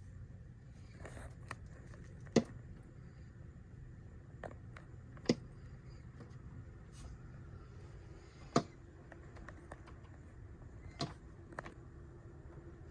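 A bird knocking against the house, trying to get in: four sharp knocks about three seconds apart, with a few fainter taps between them.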